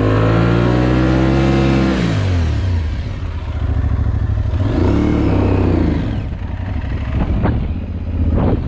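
Adventure motorcycle engine revving hard under load for about two seconds, then dropping off, with a second shorter rev about five seconds in, as the bike is ridden out of a tough spot just after stalling. Two sharp knocks near the end.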